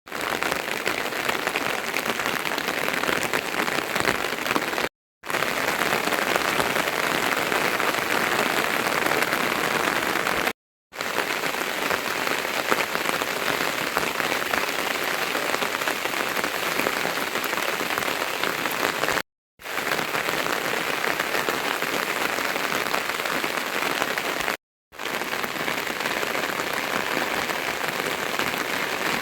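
Rain falling steadily, an even hiss of many drops, broken by four brief gaps of silence where separate clips are joined.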